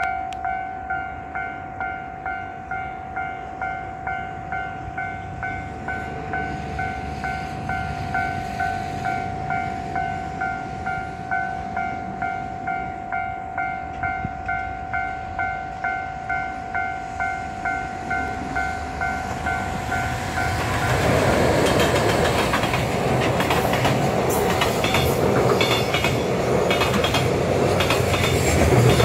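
Warning bell of a level crossing, ringing in an even repeated ding a little under twice a second. About 21 seconds in, a JR Freight EF210 electric locomotive and its container flatcars pass close by and drown it out, wheels clattering over the rail joints.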